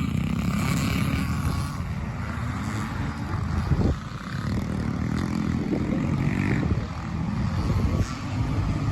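Several vintage pre-1978 scramble motorcycles racing, their engines revving up and down as they pass, with a sharp burst of revs just before four seconds in, after which the sound drops.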